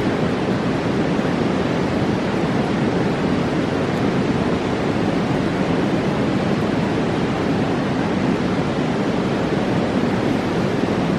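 Steady rush of a fast-flowing mountain river, an even roar with no breaks.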